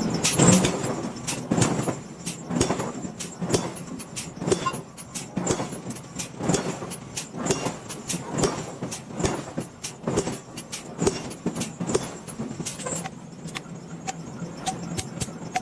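Repeated sharp metal strikes, irregular at about one or two a second, over a steady machine hum: iron being hot-forged in a forge shop.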